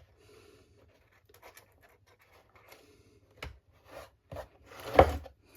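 Light scratching and rubbing on the model boat's wooden hull as excess glue is cleaned away. A few sharp clicks follow, then a louder knock about five seconds in.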